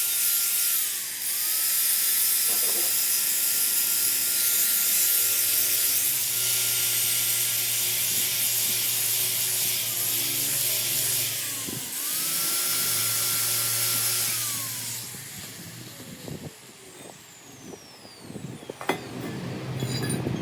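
A power tool running with a loud hiss, its motor tone sagging briefly under load twice before it winds down about three-quarters of the way through. A few sharp metallic clinks follow near the end.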